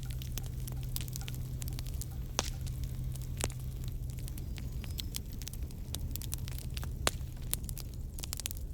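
Wood fire crackling: irregular sharp pops and snaps of burning wood, a few louder cracks among them, over a low rumble and a steady low hum.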